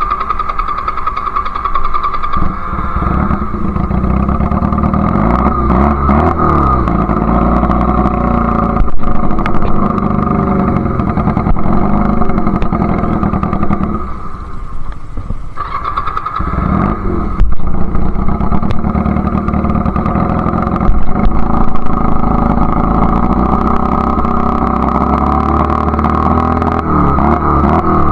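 Honda Rebel CA125 motorcycle engine running through an aftermarket BSM/Highway Hawk exhaust while being ridden, its pitch climbing and dropping several times as the throttle opens and closes, with a lull about 14 seconds in. The carburettor needle clip is in a richer position, which the rider afterwards judged the wrong move, leaving the bike spluttery and boggy between quarter and three-quarter throttle.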